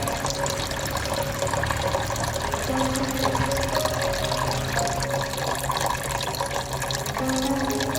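Water falling and splashing steadily in a tabletop rain fountain fed by a small submersible pump, with a few soft, held tones underneath that change pitch now and then.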